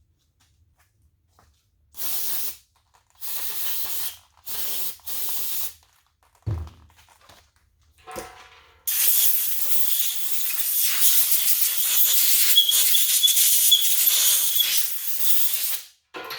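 Pressurised spray hissing in four short blasts, then a thump and a click, then one long hissing blast of about seven seconds with a faint whistle in it.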